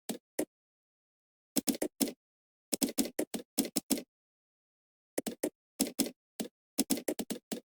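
Computer keyboard typing in short bursts of keystrokes, with pauses of silence between the bursts: two clicks at the start, a burst a little after a second and a half in, a longer run from about three to four seconds, and steady typing again from about five seconds on.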